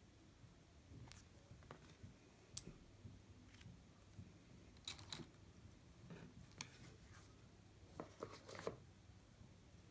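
Faint, scattered small clicks and taps of objects being handled, about a dozen in all, with a quick cluster a little over eight seconds in.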